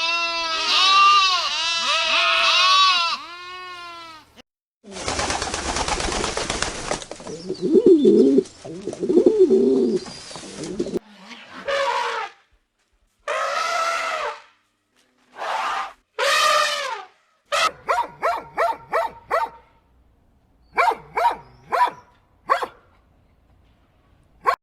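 A sequence of different animal calls, one after another: repeated quavering bleats for the first few seconds, then a noisy stretch, then several separate calls and a run of short, quick calls.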